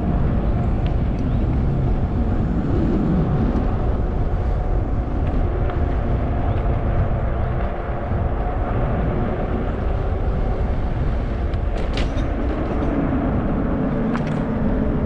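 Wind rushing over the microphone and road noise from a 20-inch fat-tire electric bike being ridden, with a faint steady hum. Two short clicks come near the end.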